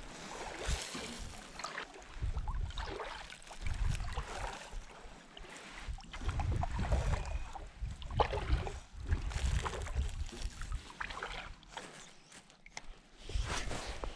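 Kayak paddle strokes swishing and splashing in the water, coming in irregular swells every second or so.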